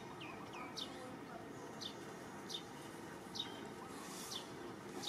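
An off-screen bird calling with short, high chirps that each slide downward, about seven at uneven spacing, over steady outdoor background noise.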